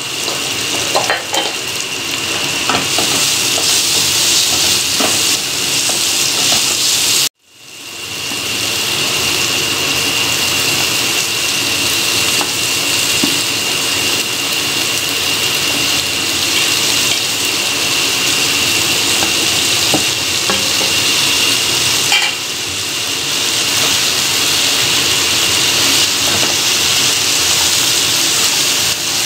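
Oil sizzling in a kadai as an onion-tomato masala fries and chopped ridge gourd is stirred in, with occasional spatula clicks against the pan. The sizzle cuts out abruptly about seven seconds in, then builds back up.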